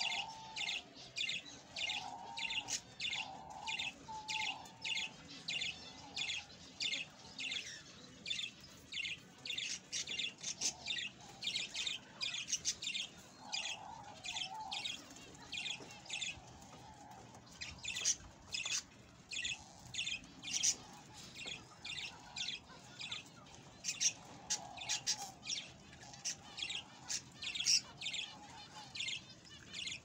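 Small birds chirping busily: short, high chirps at about two or three a second, with scattered lower calls underneath.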